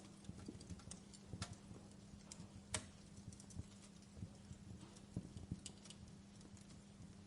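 Campfire crackling: irregular small pops and snaps, with one sharper, louder pop a little under three seconds in, over a faint steady low hum.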